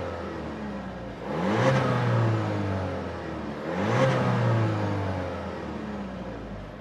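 2014 Audi A3 Cabriolet's 1.4 TFSI turbocharged four-cylinder engine under acceleration, surging louder twice about two and a half seconds apart, then easing off near the end.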